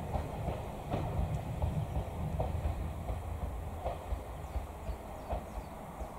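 Regional passenger train going away along the track: a low rumble slowly fading, with a few sharp wheel clicks over the rail joints.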